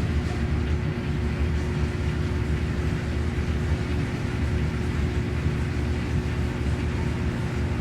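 Washing machine running steadily, its motor humming with one constant tone over a low rumble.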